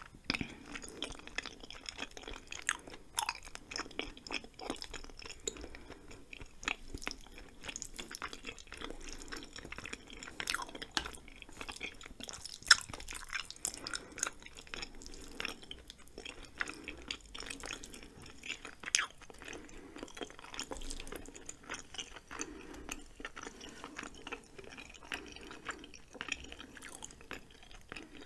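Close-miked chewing of cheesy spicy ramen and chewy rice cakes: wet mouth clicks and smacks throughout, with one sharper click about halfway through.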